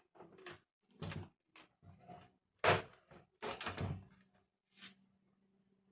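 Parts of an electric room heater being handled and fitted together by hand: a run of short knocks, clicks and rattles, the loudest about two and a half seconds in and again just before four seconds.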